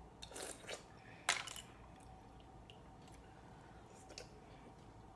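Close-up eating sounds of shrimp and mussels: wet chewing and smacking in a few short bursts, the sharpest about a second in.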